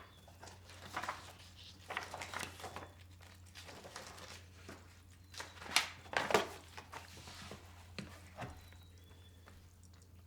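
Scattered small knocks, clatter and rustling of things being handled in a kitchen, the two loudest knocks close together about six seconds in, over a steady low hum.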